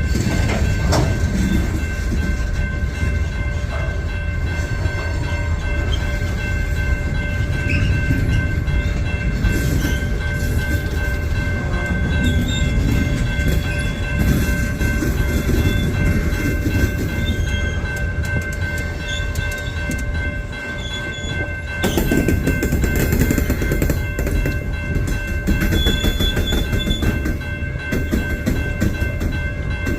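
Great Lakes Central freight train rolling past, a steady heavy rumble of locomotive and cars on the rails, with a steady high ringing tone over it throughout. The rumble dips briefly about two-thirds of the way in, then picks up again.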